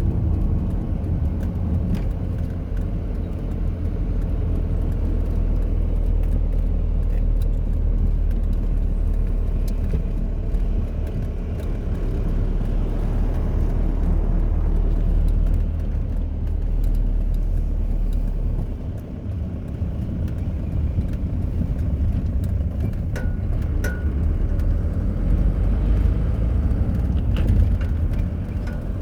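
Car driving along: a steady low rumble of engine and road noise that eases briefly about two-thirds of the way through.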